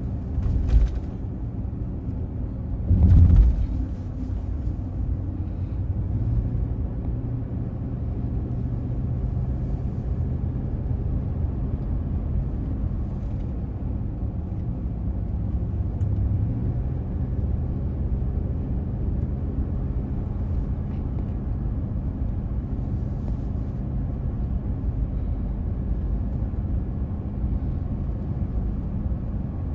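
Car driving on a road, heard from inside the cabin: a steady low rumble of engine and tyres, with two short thumps about one and three and a half seconds in.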